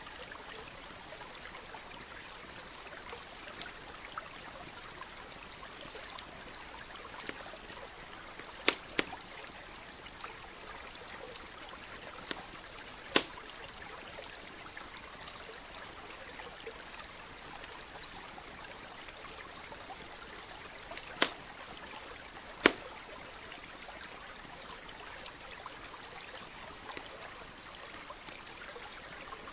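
A stream trickling steadily, with a campfire crackling over it: scattered small snaps and a few sharp, loud pops.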